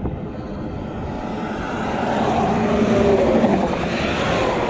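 A road vehicle passing by. Its engine and tyre noise swell to the loudest point a little past three seconds in, dropping in pitch as it goes past, then fade.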